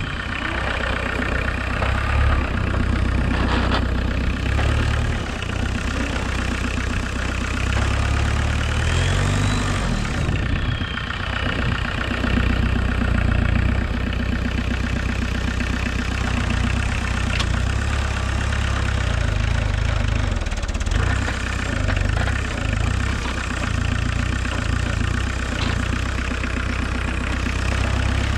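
VW 1.6 turbodiesel engine of a homemade 4x4 tractor running steadily. A brief whine rises and falls about ten seconds in.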